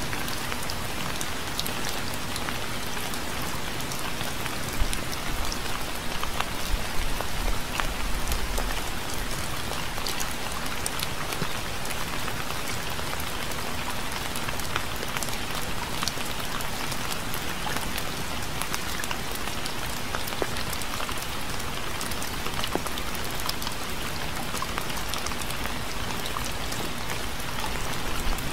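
Steady rain falling, an even hiss dotted with many separate drop ticks. A low rumble swells briefly about five seconds in and fades by about nine seconds.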